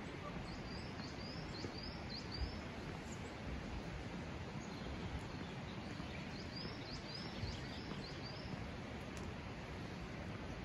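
A small songbird gives two short phrases of five or six quick, high, slurred notes each, one near the start and one a little past halfway, over a steady outdoor rushing noise.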